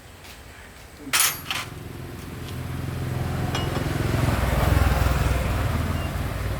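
A sharp metallic clack about a second in, then a small motorbike engine running and building up speed, getting louder towards the middle.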